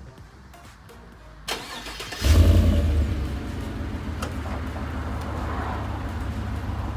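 The 2017 Chevrolet Silverado's 5.3-litre V8 starts up about two seconds in. It fires with a loud flare of revs, then settles into a steady idle.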